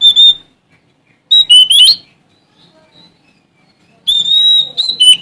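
Oriental magpie-robin (Sumatran kacer) singing in three loud, clear whistled phrases at about the same high pitch: a short note, then a quick run of slurred notes, then a longer held whistle near the end.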